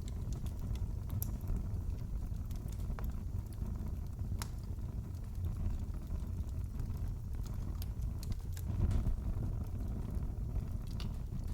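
Wood fire in a fireplace crackling: a steady low noise of burning with sharp pops and snaps scattered at irregular intervals.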